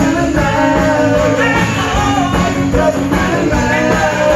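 Live band playing a song, with a singer's voice over a steady bass and drum beat.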